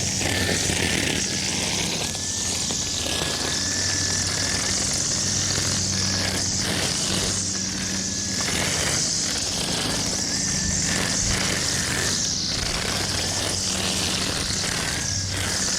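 Lawn mower engine running steadily at constant speed, with a thin whine over the engine hum.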